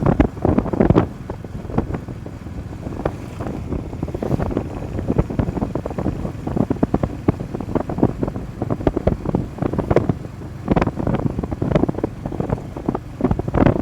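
Wind buffeting the microphone on a moving motorcycle, gusty and uneven, with road and vehicle noise underneath.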